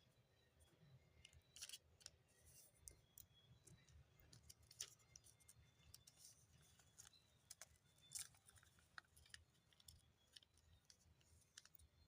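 Faint handling of paper by hand: a scatter of short, crisp clicks and rustles as a sheet is worked into a paper model.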